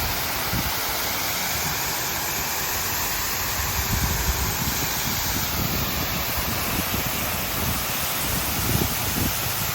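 Steady rush of water from a waterfall, with wind gusting on the microphone.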